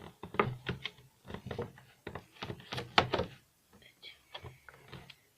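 Irregular knocks, clicks and rustles of a doll's boxed packaging being handled and opened, with a sharper knock about three seconds in.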